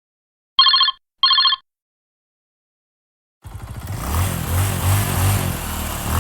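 Telephone bell ringing in two short trilling bursts. About three and a half seconds in, a vehicle engine sound starts and keeps running.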